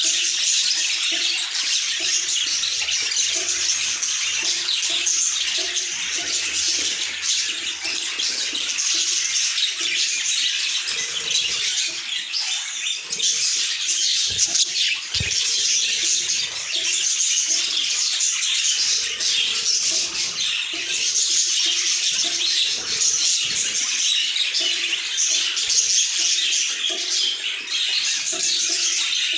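Many budgerigars chattering and chirping together in a dense, unbroken warble.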